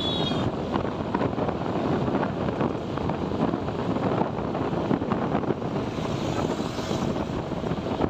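Wind buffeting the microphone over the steady engine and road noise of a motorcycle riding along a highway.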